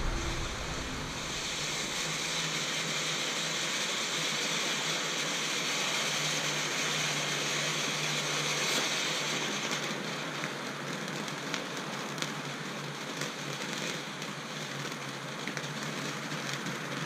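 Reloadable firework fountain burning: a steady hiss of spraying sparks, easing after about nine seconds into a lower hiss with scattered crackles.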